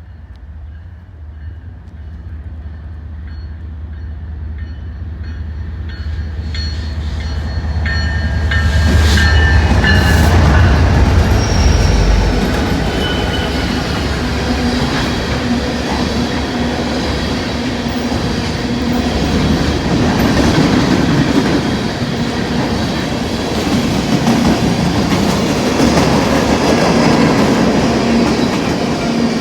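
A freight train's diesel-electric locomotives approach and pass with a low engine rumble that builds to its loudest about ten seconds in. A string of empty tank cars follows, rolling by with steady wheel and rail noise and faint wheel squeal.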